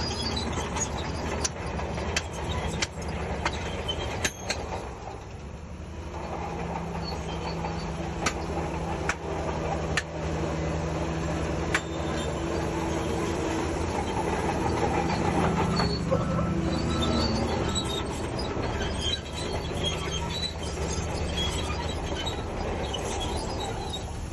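Shantui DH17C3 crawler bulldozer's diesel engine running steadily, with its steel tracks clanking and squealing and sharp metallic clanks here and there. The engine swells louder for a stretch in the middle, as under load.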